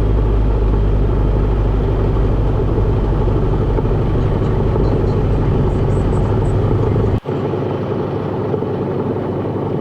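Cessna 172RG's four-cylinder Lycoming O-360 engine and propeller running steadily, heard from inside the closed cockpit. About seven seconds in, the sound drops out for an instant and comes back with much less of its low drone.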